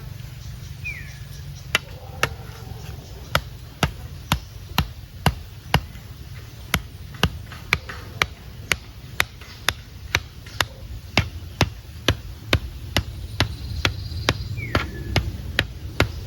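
Rhythmic blows of a hand tool, about two a second, starting about two seconds in and keeping an even pace, typical of chopping or hammering while building a garden trellis.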